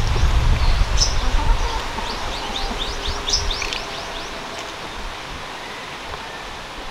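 Small birds chirping in woodland: a few single short chirps, then a quick run of falling chirps about two to four seconds in. Underneath is a low rumble that fades away over the first few seconds.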